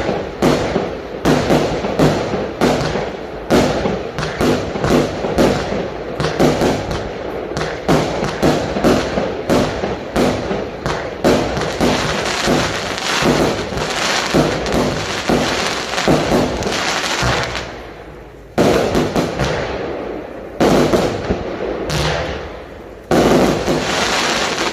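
100-shot barrage firework cake firing a fast string of bangs, two to three a second. The string thins out near the end to three big separate bangs a couple of seconds apart, each trailing off in crackle.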